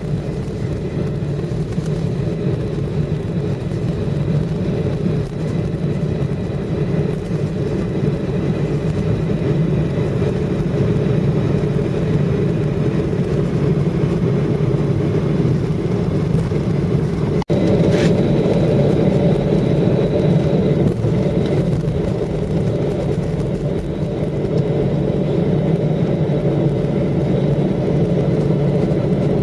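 Airliner cabin noise while taxiing after landing: a steady low rumble from the idling jet engines and the rolling airframe. It drops out briefly about seventeen seconds in, then continues a little louder with a faint high whine for a few seconds.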